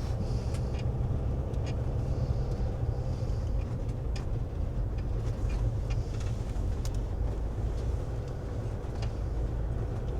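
Inside the cab of a 2016 Winnebago View motorhome driving slowly: a steady low engine and road rumble, with scattered light clicks and rattles.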